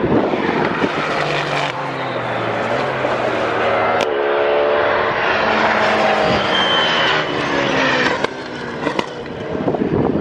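GT race car engines at full speed as cars pass by. One engine note falls in pitch as a car goes past, and another rises as a car accelerates about four seconds in.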